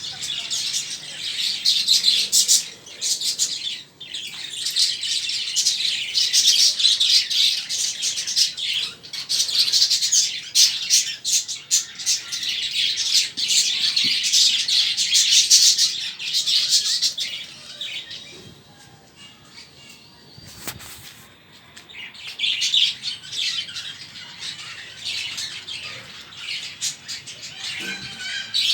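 A flock of small caged pet birds, budgerigars among them, chirping and chattering in a dense, continuous stream of high, quick calls. The chatter thins out for a few seconds past the middle, then picks up again.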